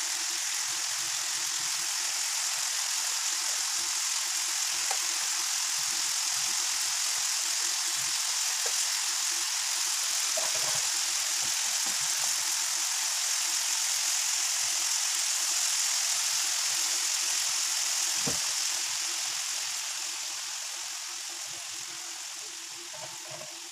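Chicken adobo sizzling in a skillet as its sauce reduces, a steady hiss with a few light clicks of a spatula against the pan and a faint steady hum beneath. The sizzle fades gradually over the last few seconds.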